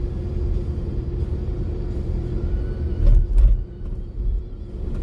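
Car engine idling, heard from inside the cabin as a steady low rumble with a steady hum. A couple of low thumps with a click come about three seconds in.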